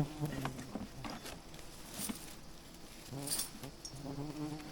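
Wild bees buzzing close by, the buzz fading in and out as they fly past, with a few light clicks and taps.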